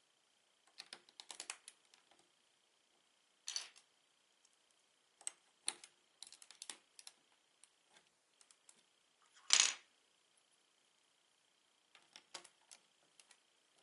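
Plastic Lego bricks clicking and clattering as they are handled, in short bursts of small clicks, with one louder rattle about halfway through.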